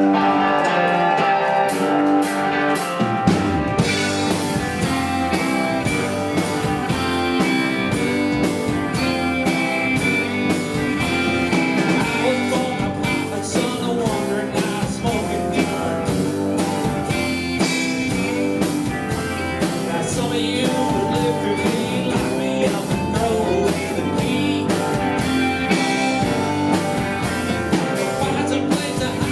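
Live band playing a rock song: guitar alone at first, then about three seconds in the bass and drums come in and the full band carries on with a steady beat.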